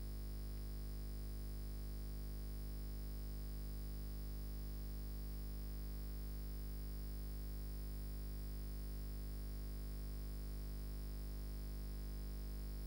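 Steady electrical mains hum: a constant low buzz at 50 Hz with its overtones, unchanging throughout, with no other sound standing out above it.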